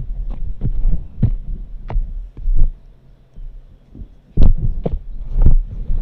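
Reformed gym chalk being crushed and crumbled close to the microphone: irregular crunches with dull low thumps. The loudest come a little over four seconds in and again around five and a half seconds in.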